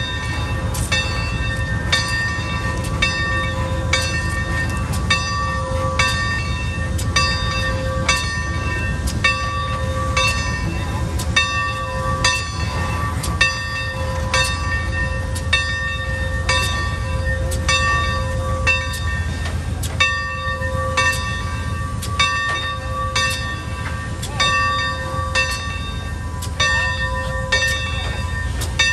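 Steam locomotive's bell ringing steadily, about one stroke a second, over the low rumble of the locomotive as it pulls into the station.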